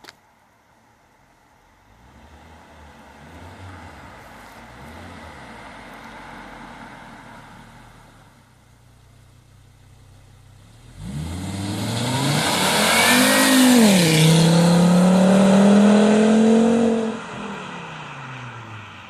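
Volvo S60 R's turbocharged five-cylinder engine under hard acceleration: after a quieter stretch of engine sound, it turns loud over halfway through, climbs in pitch, drops briefly at a gear change, climbs and holds high, then falls off and fades near the end.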